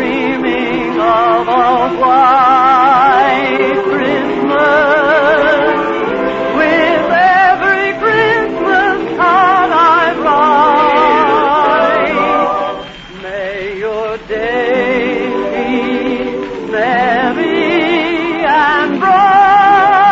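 A song with musical accompaniment, sung in an operatic style with heavy vibrato.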